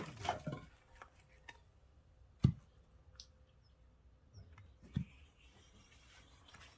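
Two sharp wooden thuds from oak firewood, about two and a half seconds apart, the first the louder.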